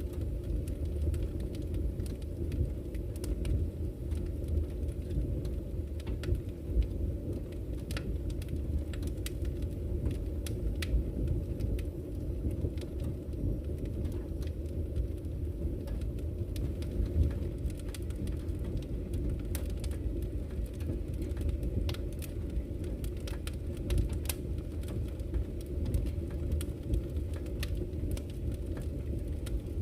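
Steady low rush of a flowing river, with a wood campfire crackling over it in frequent sharp pops and snaps.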